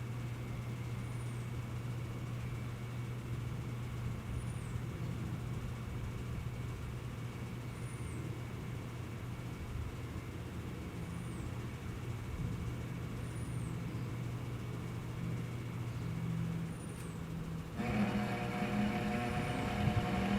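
Thunderbolt siren's motor running with the horn removed, giving a steady low hum with a faint high chirp repeating about every three seconds. The owner suspects the motor's bearings are out of alignment and causing friction. About three seconds before the end the sound gets louder and several higher steady tones join in.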